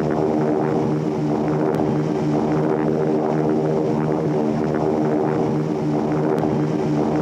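Airliner engines droning steadily in flight, a low, even propeller-type drone with a slight pulse.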